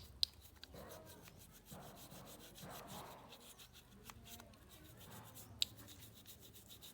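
Faint rubbing or scrubbing strokes on a part, about one a second, with a few sharp clicks: three in the first second and one more near the end.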